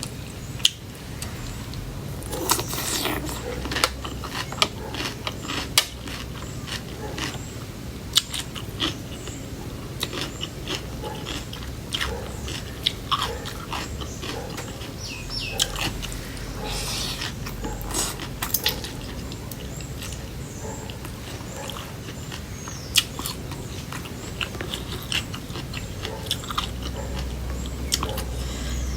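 A person chewing and crunching pounded cucumber salad close to the microphone, with many short, sharp, wet mouth clicks throughout over a low steady hum.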